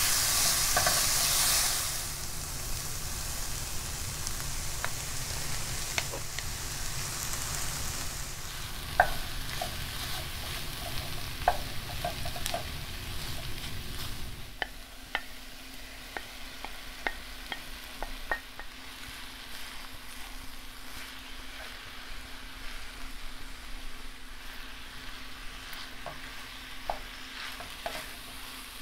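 Diced onion, carrot, peas and corn sizzling in oil in a stainless steel skillet as a wooden spoon stirs them, with scattered clicks and scrapes of the spoon against the pan. The sizzle is strongest in the first two seconds, then settles. About halfway through it drops quieter once cooked rice and ground beef are stirred in, over a faint steady hum.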